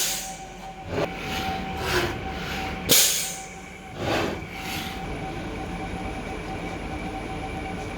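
CNC milling machine running its automatic tool-length measuring cycle: a steady motor whine, with a string of short rough scraping noises about once a second as the axes move, which then give way to the whine alone. The harsh noise is the sign of worn-out mechanics.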